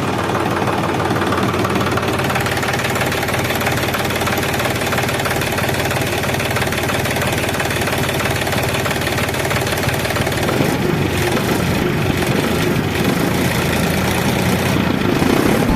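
Tractor engine running steadily and loudly, growing slightly louder near the end.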